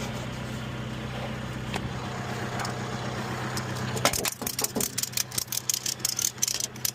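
A vehicle engine idling steadily and cutting off about four seconds in, followed by a rapid, irregular series of clicks and rattles.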